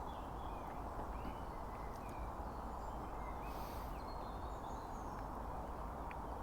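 Woodland ambience: a steady rushing background with scattered short, high bird chirps, and a brief hiss about three and a half seconds in.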